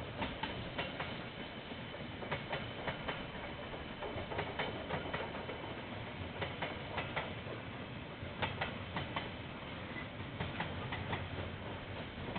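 Train passing on the line, its wheels giving an irregular run of sharp clicks over a steady rumble, heard through a security camera's microphone.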